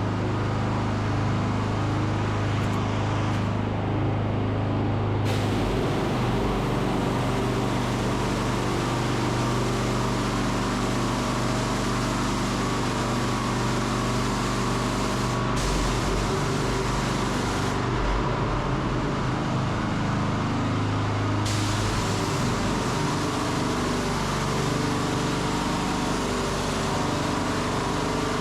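Pressure washer running: the motor's steady low hum under the dense hiss of the high-pressure water jet blasting mud off a surface. The highest part of the hiss thins out for a few seconds twice, around 4 s and 19 s in, as the spray shifts.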